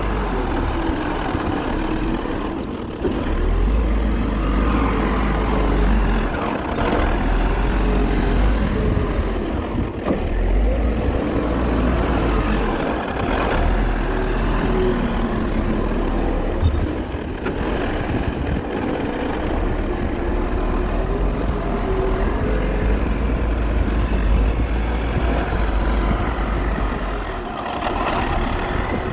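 Caterpillar wheel loader's diesel engine running under work, its pitch rising and falling over a heavy low rumble.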